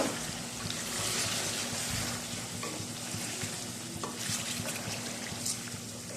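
Chicken and yogurt sizzling as they fry in a karahi while being stirred, with a few sharp scrapes of the stirring utensil against the pan.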